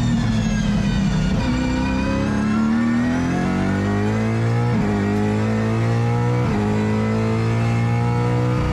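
Gen 3 Ford Mustang Supercar's V8 pulling hard through its straight-cut sequential gearbox, the pitch climbing steadily and breaking at upshifts about a second and a half, five and six and a half seconds in. Straight-cut gear whine rides over the engine note.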